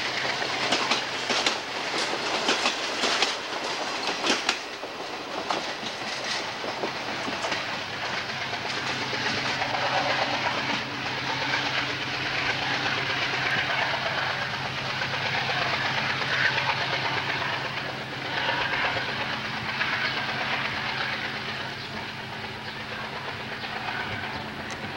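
Passenger train coaches rolling past, steel wheels clicking over the rail joints for the first few seconds, then a steady rolling rumble that slowly fades as the last coach moves away.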